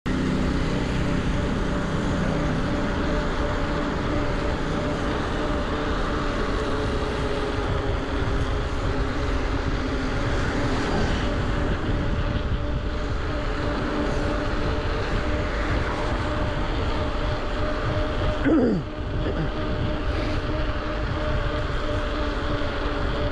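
Bafang BBSHD mid-drive e-bike motor whining steadily under power assist at about 23 mph, over a steady rush of wind and tyre noise. A brief falling tone sweeps down about 18 seconds in.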